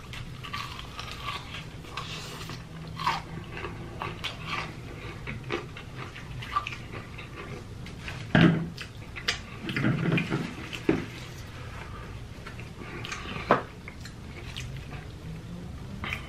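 A person biting into and chewing crispy fried chicken, with many small crunchy, clicky mouth sounds. A few louder mouth sounds come about 8, 10 and 13 seconds in.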